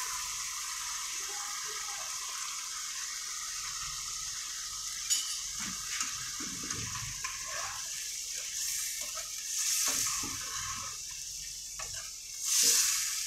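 Chicken pieces sizzling in hot oil and liquid in an iron karahi, with a steel ladle stirring and knocking against the pan a few times.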